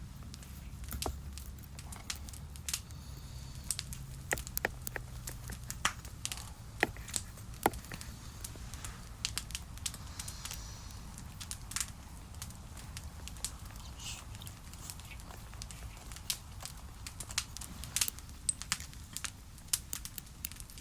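Wood campfire crackling, with irregular sharp pops scattered through it over a low steady rumble.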